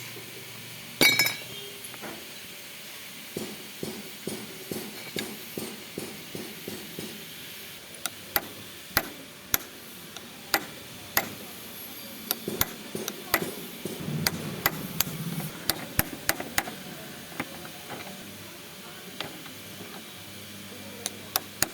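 Hammer and tools striking metal on a motorcycle rear shock absorber during repair, with sharp metallic clinks and taps. There is a loud ringing clank about a second in, then a run of lighter taps, then a longer series of sharper ringing hits.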